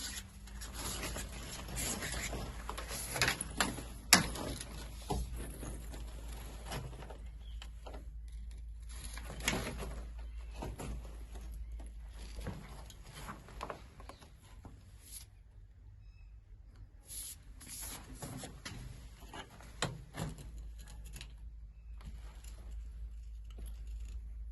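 Scattered clicks and knocks of handling, with a steady low hum underneath.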